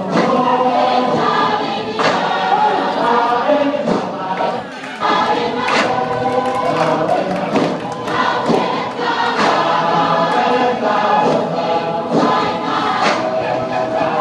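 A group of voices singing a song together in harmony, with a sharp clap or knock on the beat about every two seconds.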